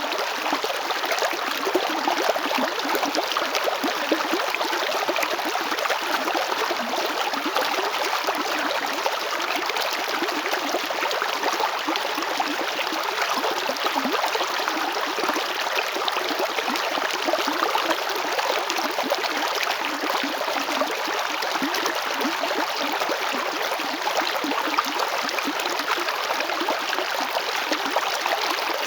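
Río Chalchaní flowing steadily over rocks: a continuous rushing, burbling sound of running water.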